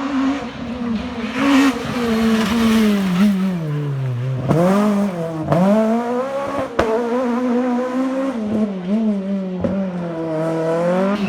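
Renault Clio rally car's engine at high revs under hard driving, its revs falling and climbing again several times. A sharp crack comes about two-thirds of the way through.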